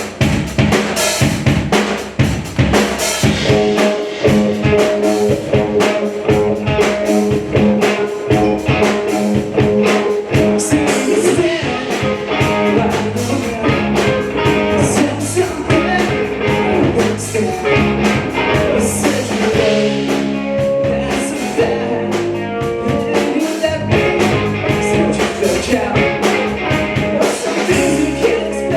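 Rock band playing live: a driving drum-kit beat of kick, snare and rimshots under sustained bass and other instruments.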